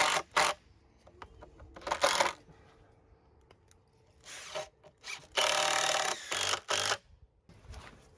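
Knife carving wood in short scraping strokes: single strokes at the start, about two seconds in and about four and a half seconds in, then a longer run of strokes lasting about a second and a half near the end.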